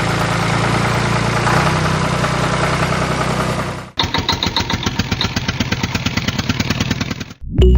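Small motor of a homemade mini tractor running steadily with a low hum. After an abrupt cut it runs with a fast, regular chugging of about nine beats a second.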